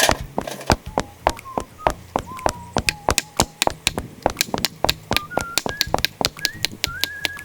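Fast, even hammer strikes on metal, about four to five a second, each leaving a short ring that climbs in pitch over the seconds, typical of a metal tent peg being driven into the ground.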